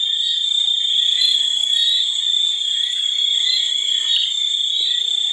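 A steady, high-pitched chorus of calling animals: one shrill continuous tone with short chirps rising out of it about every half second.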